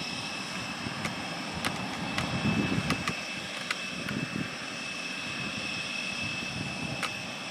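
Aircraft engines running steadily: a constant high whine over a low rumble, with a few light clicks.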